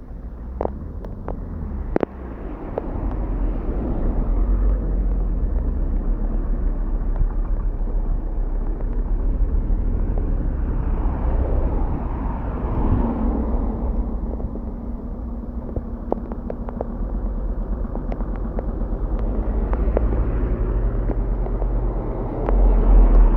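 Vehicles driving along a flooded road, their tyres hissing through the water, with one passing car swelling and fading about halfway through, over a steady low rumble.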